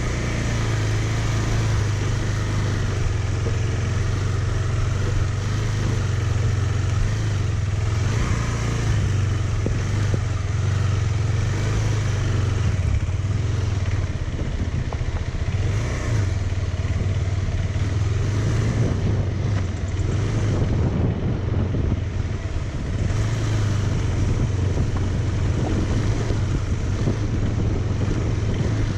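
Motorcycle engine running at a steady pitch while under way, over a constant rushing noise.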